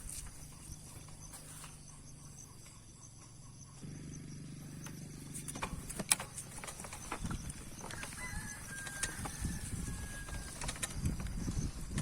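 Insects droning steadily at a high pitch in the open countryside, with scattered sharp clicks. A low rumbling sets in during the second half.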